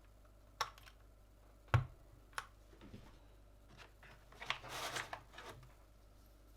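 Small hard plastic clicks, three sharp ones with the second the loudest and carrying a light knock, then a short scratchy rattle: keyboard parts such as keycaps or switches being handled and fitted.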